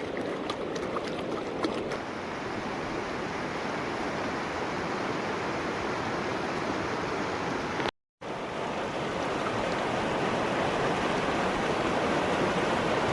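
Steady rush of a fast-flowing river. The sound drops out for a moment about eight seconds in, then carries on.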